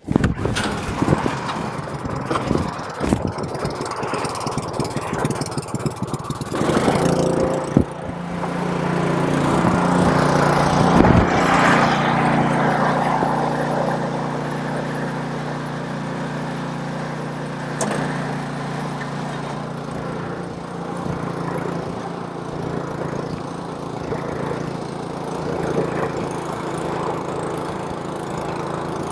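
Snowblower's small gasoline engine starting up: irregular clattering for the first several seconds, then it catches about eight seconds in, runs loudest briefly, and settles into a steady run.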